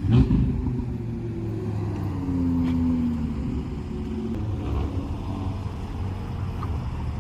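Hyundai Avante Sport's turbocharged four-cylinder engine through an aftermarket performance exhaust. It gives a sharp rev at the very start, then its note slides down in pitch over the next few seconds and settles into a steady low drone.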